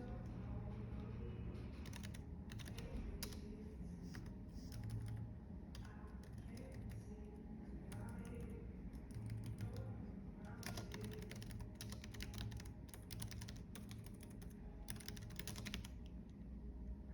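Computer keyboard typing in bursts: a short run of keystrokes about two seconds in, then a longer run of rapid keystrokes from about ten seconds to sixteen seconds, over a steady low background hum.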